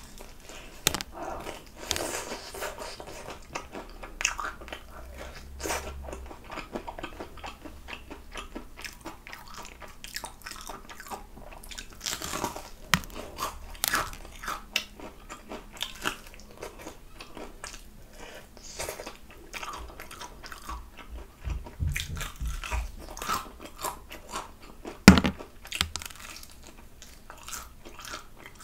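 Crispy fried chicken drumstick being bitten and chewed, with many short crunches of the fried crust and one louder sharp crack near the end.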